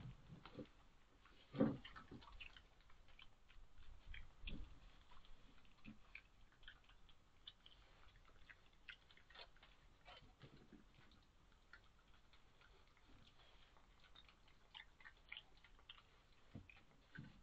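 Badgers eating peanuts: faint, irregular small clicks and crunches, with one louder knock about a second and a half in.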